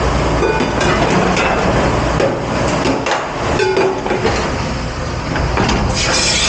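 Dishes, pans and metal ware clattering over a constant low rumble of kitchen machinery in a commercial dish pit.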